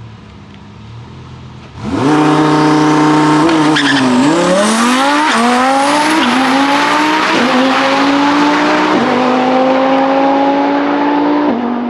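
A high-performance car's engine at a drag strip comes up sharply to held launch revs about two seconds in. It launches, then pulls hard through the gears: the pitch climbs and drops at each upshift, about five shifts, spaced further apart as the gears go up.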